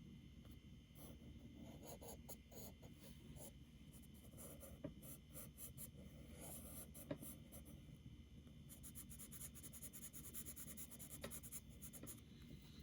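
Charcoal pencil scratching faintly on paper in runs of rapid shading strokes, laying down dark tone on the drawn wheels.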